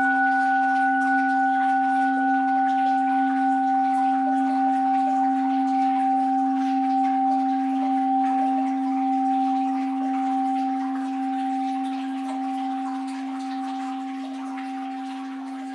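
An orin (Japanese Buddhist bowl bell) ringing on after a strike. Its low tone, with fainter higher overtones, wavers gently in level and slowly fades away.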